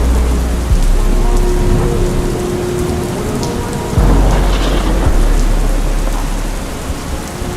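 Steady rain sound layered over a slowed, reverb-heavy rap track. Deep bass notes come in just under a second in and again about four seconds in, under long held synth tones.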